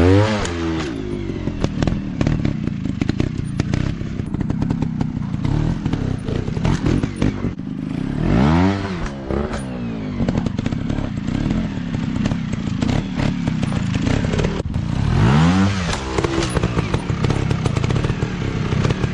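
Off-road dirt bike engines running hard, the throttle opened and closed so the pitch swings up and down in three big revs, with clattering mechanical noise throughout.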